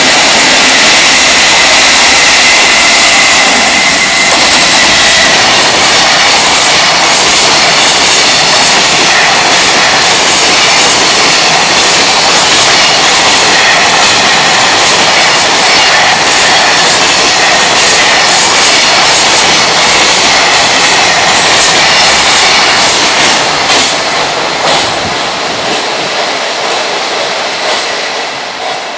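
JR Freight EF210 electric locomotive and its train of container flatcars passing at speed: a loud steady rumble of wheels on rail, with repeated clacking as the wheels cross rail joints. The sound fades over the last few seconds as the final wagons go by.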